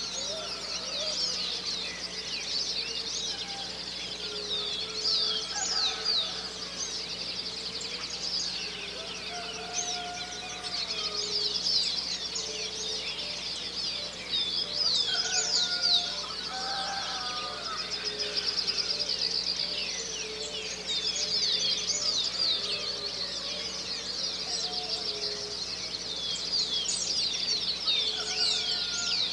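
Dawn chorus of many songbirds chirping and trilling all at once, a dense overlapping stream of short high calls. Lower clucking calls of chickens sound underneath.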